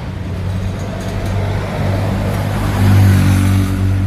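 A motor vehicle engine running with a steady low hum, growing louder about three seconds in.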